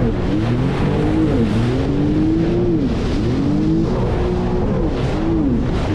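Jet ski engine revving up and down several times as the throttle is worked, its pitch rising and falling in swoops, over a continuous rush of water and wind noise.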